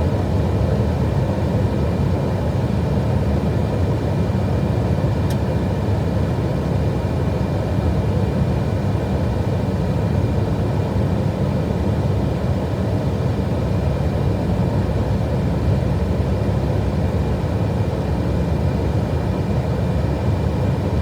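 Steady rush of airflow and engine noise inside an Airbus A320 cockpit on final approach, with a thin steady high whine over it. One faint click about five seconds in.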